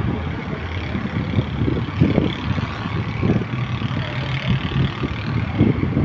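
City traffic: road vehicle engines running, with an irregular low rumble under a steady hum.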